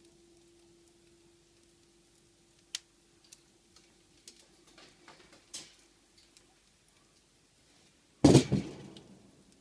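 Fire crackling with a few scattered sharp pops over a faint steady hum that fades out, then one loud crack a little past eight seconds in that dies away over about a second.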